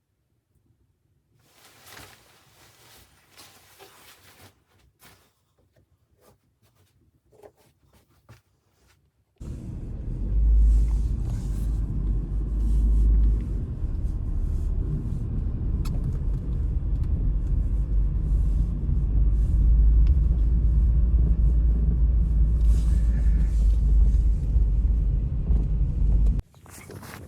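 Faint rustling and light knocks, then, about nine seconds in, a loud steady low rumble starts suddenly and cuts off abruptly near the end.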